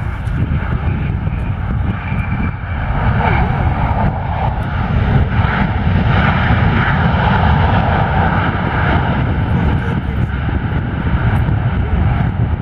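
Jet airliner's engines running loud as the plane passes, with a deep rumble that swells about three seconds in and eases slightly near the end.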